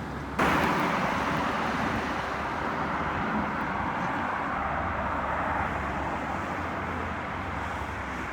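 Road traffic noise: a steady hiss of passing vehicles that jumps up suddenly about half a second in and then eases off slowly.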